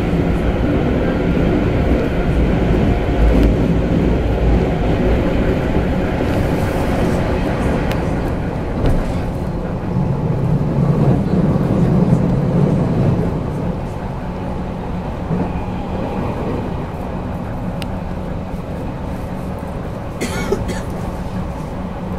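Interior running noise of a JR West 221 series electric train under way: a steady rumble of wheels on rail with a low hum. About two-thirds of the way through the hum stops and the running noise drops, and a short sharp clatter comes near the end.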